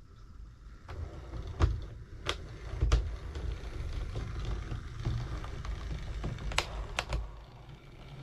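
Model 56XX tank locomotive running slowly on the layout's track: a low rumble of its motor and wheels, with about six sharp clicks as the wheels cross rail joints and pointwork.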